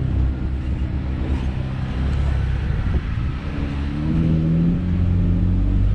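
Jeep engine running at low speed while crawling along a dirt and rock trail, its pitch rising a little about four seconds in.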